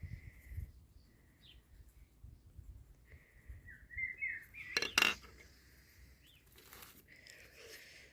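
Small birds chirping in short, high calls, with a single sharp click or clack about five seconds in.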